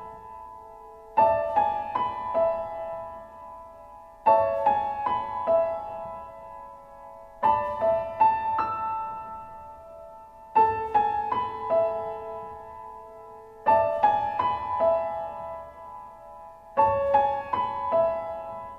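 Piano music: a short phrase of a few quick notes and a held note, repeated about every three seconds.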